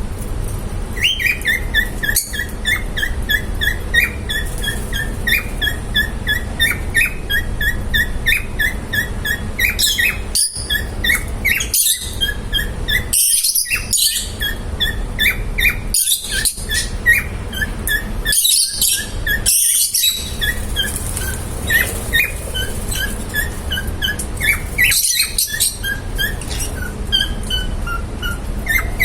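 Pet lovebirds chirping in long quick runs of short high notes, several a second, with louder harsh screeching calls in the middle stretch and again near the end, over a steady low rumble.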